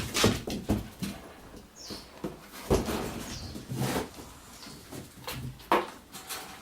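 Kittens playing: irregular knocks, thumps and scratchy rustles, with a few faint short high squeaks.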